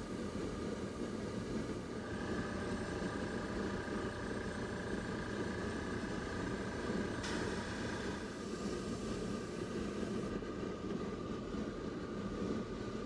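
Airbrush air compressor running steadily, a low continuous hum. A thin higher tone joins about two seconds in and fades out around eight seconds.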